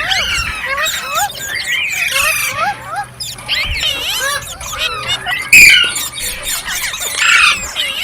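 Green parrots calling: a rapid, overlapping stream of high chirps and squeals that sweep up and down in pitch, with a louder squawk about five and a half seconds in.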